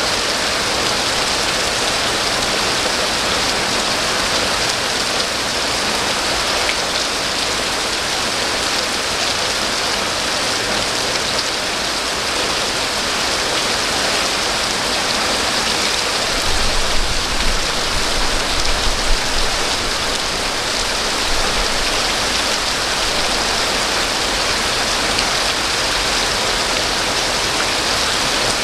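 Steady heavy rain falling, an even hiss of drops on surfaces. A little past halfway, a low rumble rises under it for a few seconds.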